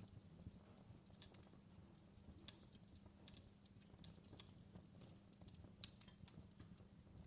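Wood fire crackling in a fireplace: faint, irregular sharp pops and snaps over a low steady rumble.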